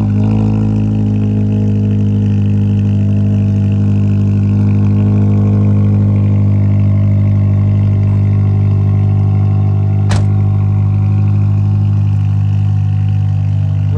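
Toyota Celica's engine idling steadily, with one sharp click about ten seconds in.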